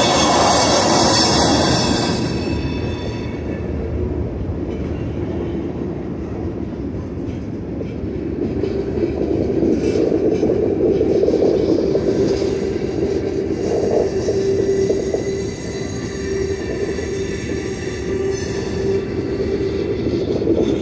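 Freight cars rolling past on the rails: a loud, harsh scraping for about the first two seconds, then a steady rumble of wheels on track. From about nine seconds in, a steady squeal is held over the rumble.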